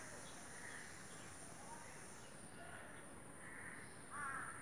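Faint outdoor background with small birds chirping here and there, and a brief, slightly louder call about four seconds in.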